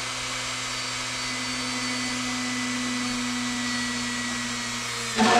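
Dremel rotary tool fitted with a drill bit, running steadily as it drills a hole through a thin wooden mast, with a brief louder burst near the end.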